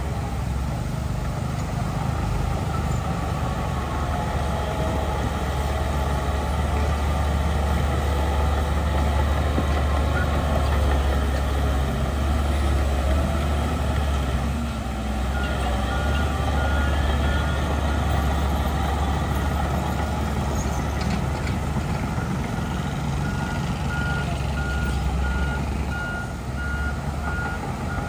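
Heavy diesel earthmoving machinery running steadily at a low pitch. A reversing alarm sounds a run of evenly spaced beeps a little past halfway, then again toward the end.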